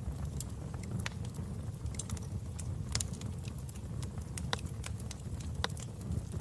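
Wood fire burning in a fireplace: a steady low noise with irregular sharp crackles and pops from the burning logs.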